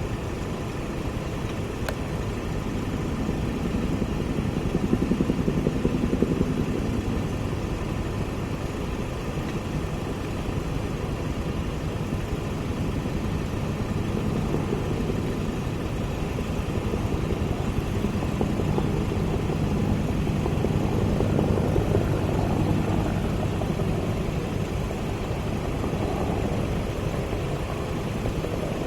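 An engine running in a steady low drone that swells twice, about five seconds in and again past twenty seconds.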